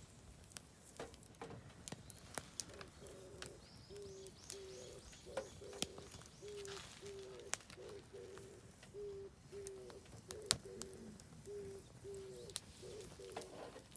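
Oak firewood crackling and popping with sharp irregular snaps in a campfire, while a bird repeats short low notes about twice a second, and a second bird gives a faint high trill early on.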